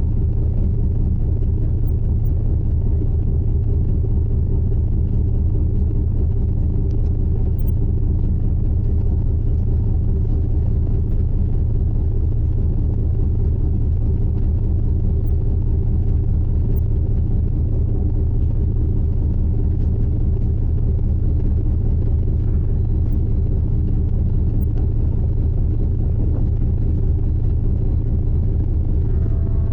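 Steady low rumble of the sightseeing icebreaker Aurora under way through drift ice, its engines and hull droning without a break.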